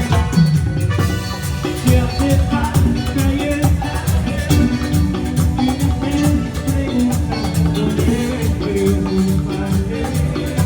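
A band playing Latin dance music with a steady beat, bass and shaken percussion.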